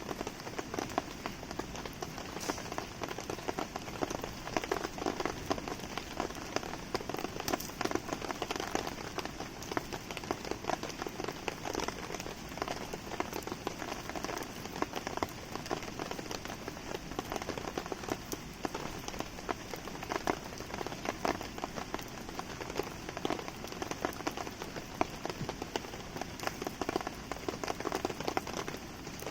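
Steady rain pattering on surfaces, a dense even patter of drops, mixed with a wood campfire crackling.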